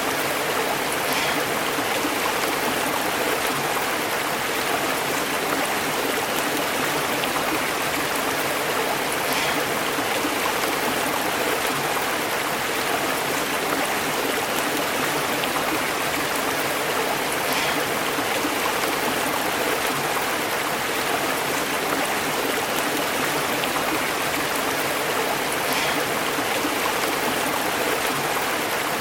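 Stream water running and burbling over rocks, a steady unbroken rush, with a faint click recurring about every eight seconds.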